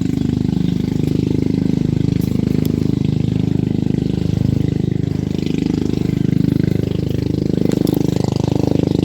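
A small engine running steadily at an even speed, a low pulsing hum.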